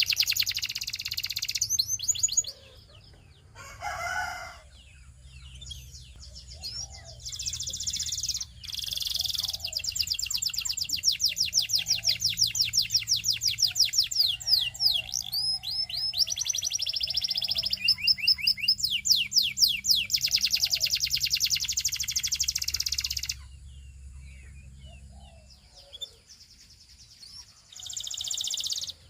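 Belgian singing canary singing long runs of rapid, high trills of repeated notes, with a pause of a few seconds early on and another near the end.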